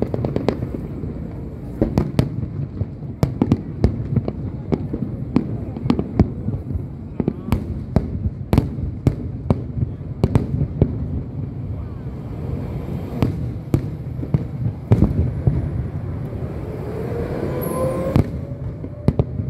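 Aerial fireworks display: a rapid, irregular run of sharp bangs and crackles over a continuous low rumble of distant bursts, with a rising whistle shortly before the end.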